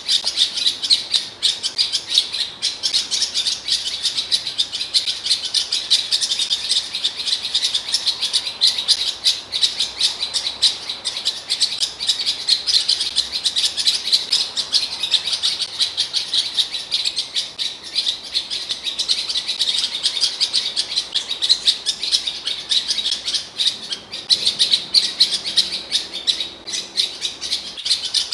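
Blackcap (Sylvia atricapilla) singing a fast, unbroken warble of high chirps and twitters.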